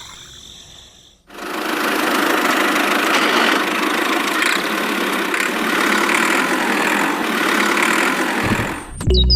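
An engine running steadily, starting abruptly about a second in and cutting off suddenly near the end.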